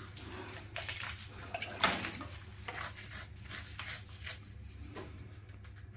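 Faint, scattered wet dabbing and scraping of hand work on the chimney's masonry, with one sharp click about two seconds in.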